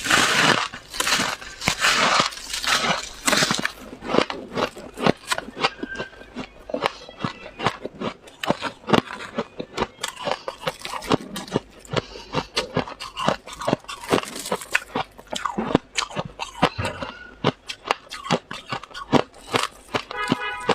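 Crunching of freezer frost being bitten and chewed: a close, continuous run of irregular crisp snaps. A brief pitched sound comes in near the end.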